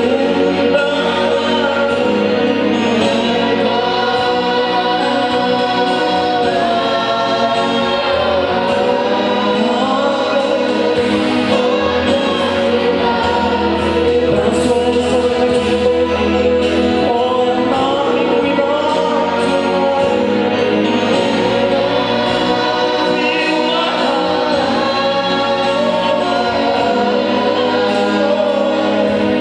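Gospel worship music: a group of voices singing together over a steady instrumental accompaniment.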